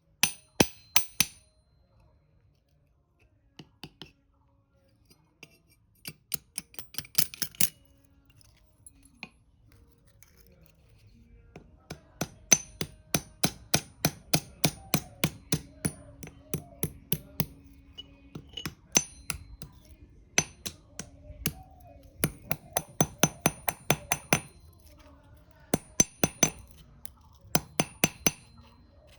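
Hammer tapping on steel, each blow ringing bright and metallic. A few blows come near the start and a short flurry a few seconds in, then a long run of about three or four taps a second, with brief pauses.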